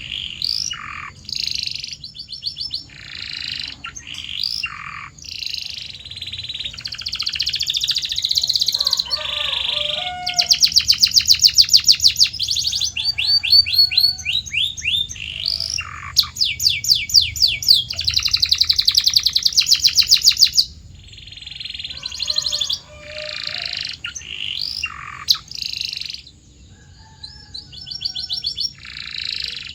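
Canary singing a varied song: whistled phrases and fast trills of rapidly repeated high notes, loudest in the middle, with short pauses between phrases.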